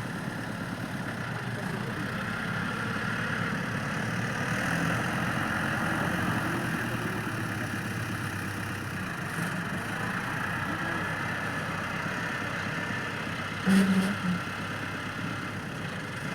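Tractor engine running steadily at idle, with one short louder sound near the end.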